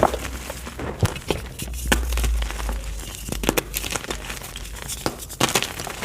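Block of gym chalk being crushed: soft crumbling crunches with irregular sharp crackles, and a low rumble about two seconds in.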